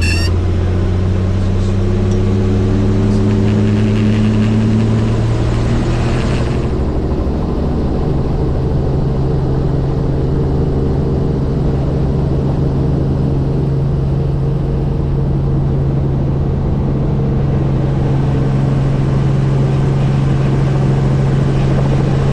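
Tour helicopter's rotor and turbine engine running with a loud, steady hum. Its pitch rises over the first six or seven seconds, then holds level.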